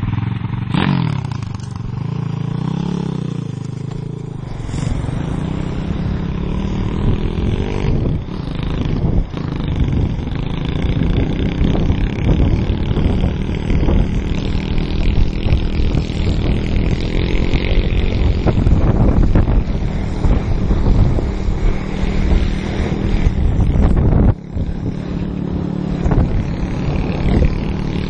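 Small motorbike engine running and revving. Heavy scraping and clattering, from the towed mattress being dragged over the ground, run underneath it.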